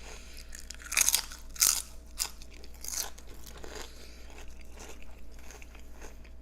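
A person eating close to the microphone: loud crunchy bites about one second, a second and a half and three seconds in, then quieter chewing.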